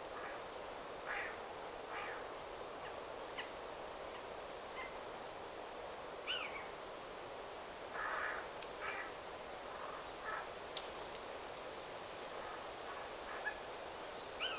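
Wind rushing steadily through forest trees, with scattered short bird calls and chirps throughout and a couple of brief downward-sliding whistles.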